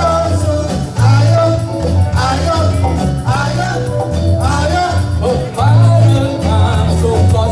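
Campursari band playing live with a singer: a steady bass line under a sung melody with sliding pitches.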